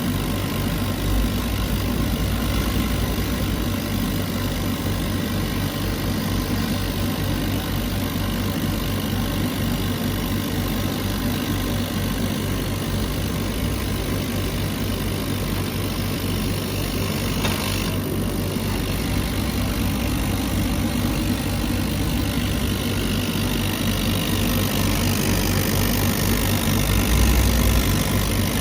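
CNC laser cutter running while it cuts a pine picture frame: a steady machine hum, with a higher hiss that cuts off about two-thirds of the way through.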